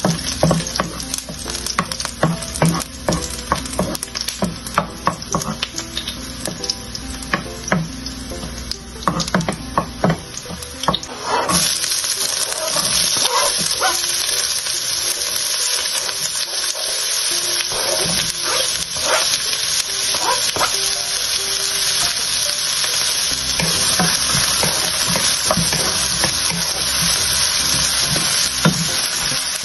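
Chopped garlic frying in olive oil in a wok, with sharp clicks of a wooden spatula stirring against the pan. About a third of the way in, chopped red onion is tipped into the oil and the sizzle jumps to a loud, steady frying sound as the onion is stirred.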